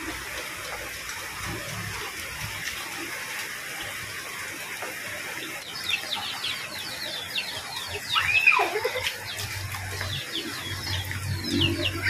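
Steady hiss of rain and running floodwater. From about halfway, small birds chirp repeatedly, and a little later a chicken gives one loud rising-and-falling call.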